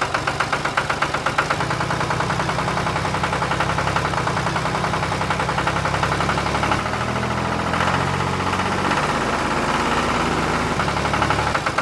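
Small tractor engine running with a steady chugging beat; its tone shifts slightly about seven seconds in.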